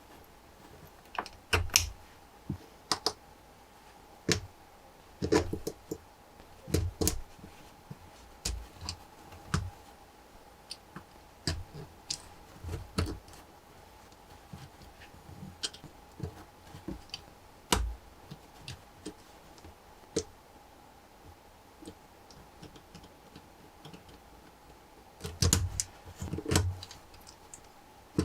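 Lego Technic parts being handled and snapped together: irregular sharp clicks and clacks, a few at a time with pauses, with a quick cluster of several near the end.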